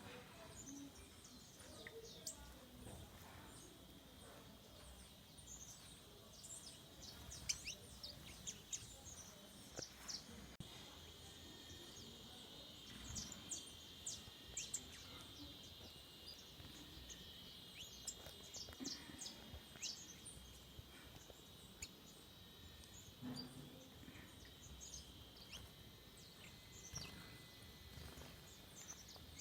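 Forest birds calling faintly, many short high chirps scattered throughout, over a steady high-pitched drone.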